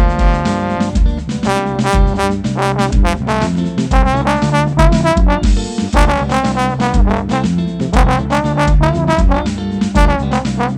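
A live band playing an upbeat tune led by brass, trombone to the fore, over bass and a steady beat.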